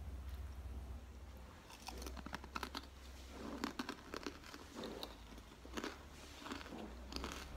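Chewing a crunchy fried kerupuk cracker topped with fried ampog (corn rice): close, irregular crackly crunches in the mouth, coming thicker from about two seconds in.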